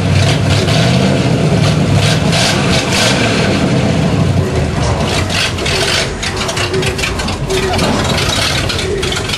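A vehicle engine runs loud and low for about six seconds, then eases off a little.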